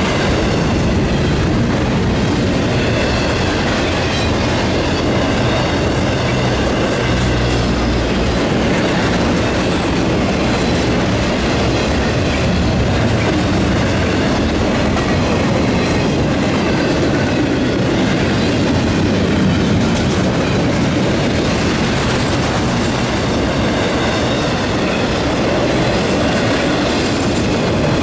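Norfolk Southern double-stack intermodal freight train's cars rolling past at speed: a steady, loud rumble and clatter of steel wheels on rail, with a faint high-pitched wheel squeal wavering over it.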